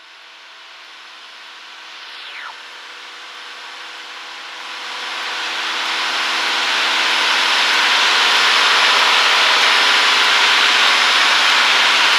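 Cessna 152 cockpit noise: the four-cylinder Lycoming engine's steady drone under a broad hiss, growing louder over the first several seconds and then holding steady. A short falling whistle comes about two seconds in.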